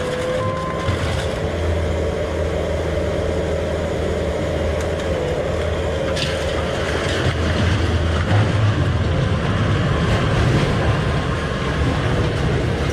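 Scrap-yard heavy equipment working the scrap pile: a steady diesel engine drone with a whine, reversing beeps that stop about a second in, and scrap metal scraping and clanking, with one sharp clank about six seconds in.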